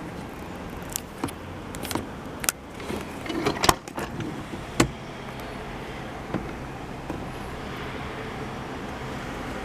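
Refrigerator doors and drawers being handled: a scatter of clicks and knocks, loudest in a cluster about three and a half to four seconds in, over a steady low hum.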